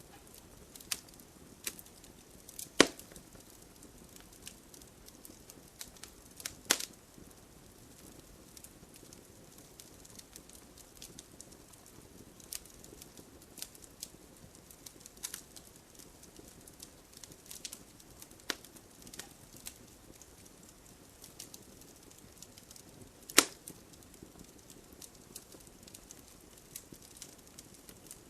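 Wood fire burning in a fireplace: a low steady hiss with scattered sharp crackles and pops, three louder pops standing out, the loudest about 23 seconds in.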